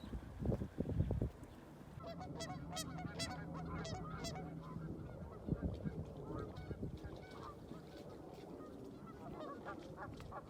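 Geese honking, many overlapping calls from a flock, beginning about two seconds in and going on throughout, after a few low thumps at the start.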